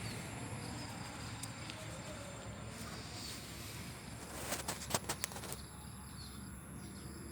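Steady low background rumble with a quick run of four or five sharp clicks about four and a half to five and a half seconds in.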